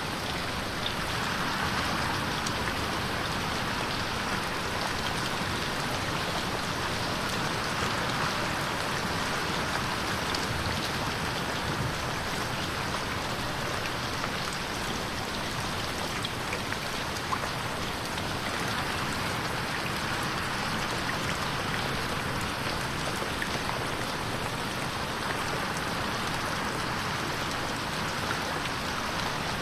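Steady rain pattering on a window pane, with scattered sharper drop ticks over an even hiss. The sound swells and eases slowly, as the 8D processing moves it around the listener.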